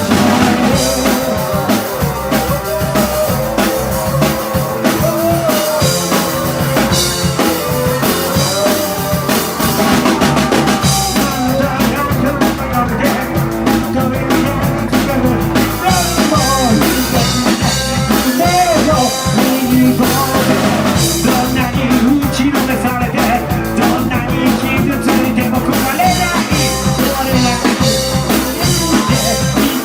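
Rock band playing live: a drum kit beat with electric guitar and bass.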